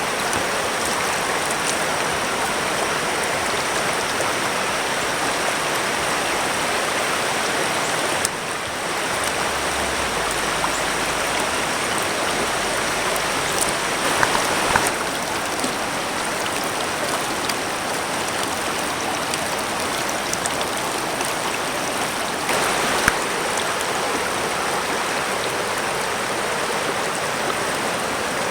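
Steady rush of flowing river water. It shifts slightly a few times, with a couple of faint clicks.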